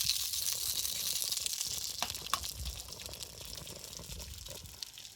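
Sizzling in a hot pan: a loud hiss that is strongest at the start and slowly dies down, with a few sharp crackles.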